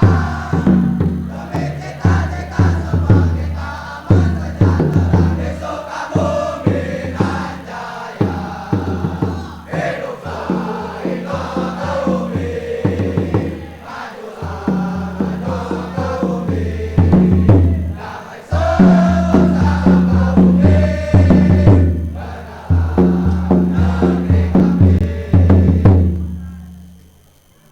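Male student choir singing in unison over a backing track with steady bass notes; the music fades out near the end.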